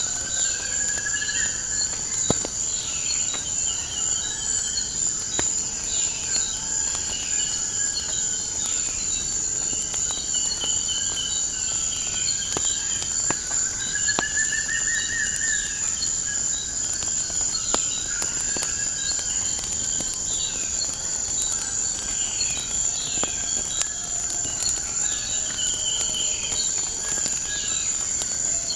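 Wood fire crackling with scattered sharp pops, under a steady high-pitched insect trill and repeated bird chirps; a rising whistled note sounds about a second in and again about halfway through.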